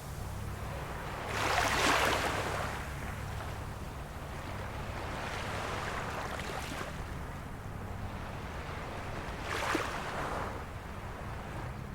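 Small waves of a calm sea washing ashore: the surf swells and falls away, with two louder washes about eight seconds apart, over a steady low rumble.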